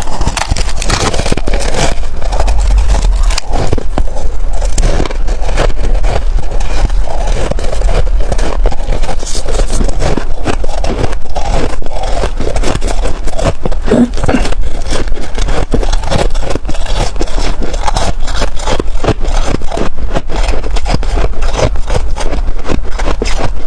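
Loud, close-up crunching of white freezer frost: a dense, unbroken run of crisp crackling crunches.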